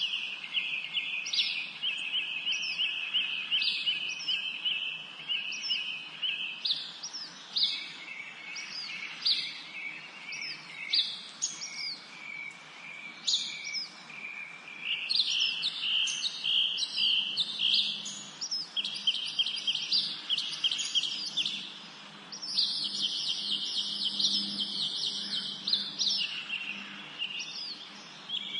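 Several songbirds singing together in a spring forest, overlapping: fast high trills and short, repeated notes that slide downward in pitch.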